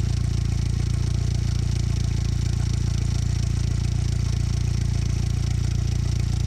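1953 Willys truck engine idling, steady and even, a smooth solid idle on its new fuel pump.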